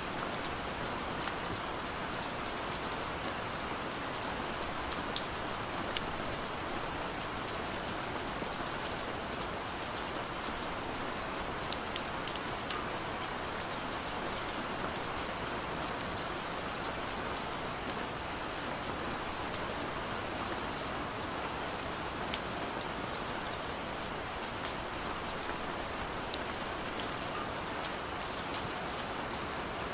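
Steady gentle rain falling, an even hiss with many small scattered drop ticks.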